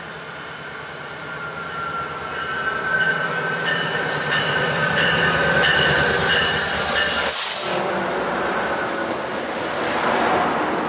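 MARC commuter train led by a diesel locomotive coming alongside the platform, with several high steady squealing tones from the wheels and brakes building as it nears. A loud rushing noise comes as the locomotive passes close, about two-thirds of the way in, and cuts off suddenly, leaving the rumble of the passenger cars rolling by.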